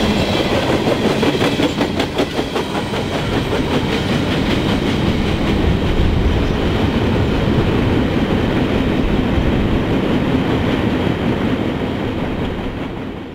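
Freight train of covered hopper cars rolling past, its wheels clicking over the rail joints in a quick, even rhythm over a steady rumble. The rumble carries on as the end of the train pulls away, then fades out near the end.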